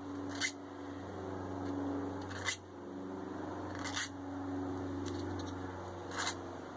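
Hand filing the edges of a Damascus steel billet: slow scraping strokes, each about one and a half to two seconds long, with a short click between strokes.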